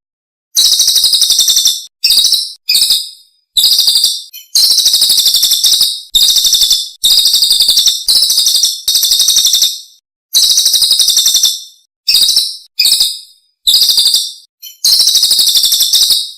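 Songbird singing in a rapid, high-pitched chattering trill, delivered as about fifteen short phrases that each run from under a second to about two seconds, with abrupt silent gaps between them, as in an edited recording.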